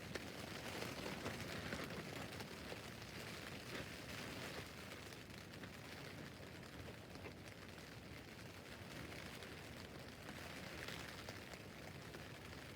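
Steady rain drumming on a tent's fabric roof, a dense patter of drops over a steady hiss.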